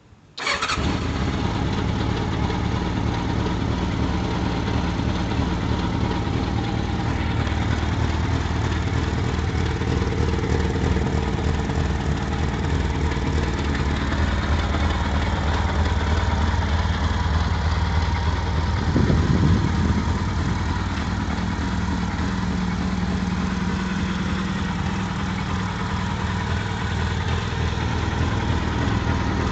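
Honda CBR750 Hurricane's inline-four engine starting up and idling steadily, with one short blip of the throttle about two-thirds of the way through.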